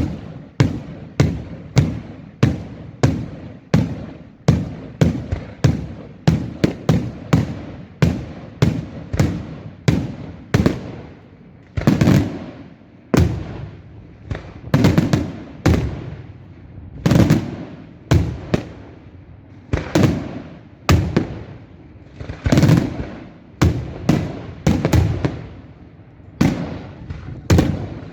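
Daylight fireworks display: a rapid, unbroken run of aerial shell bursts, about two bangs a second at first. From about twelve seconds in the bursts come roughly once a second and are louder, each ringing out briefly after the bang.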